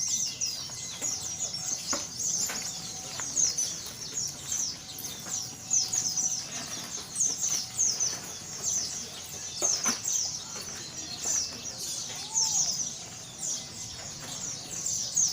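White-eyes (pleci) singing: a dense, continuous run of quick, high, downward-sweeping chirps and trills.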